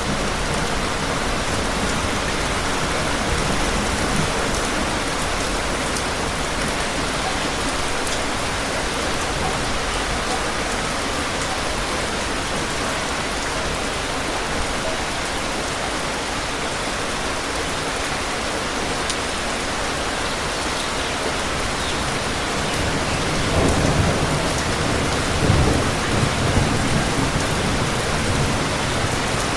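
Steady rain falling, with a low rumble of thunder rolling in about three-quarters of the way through.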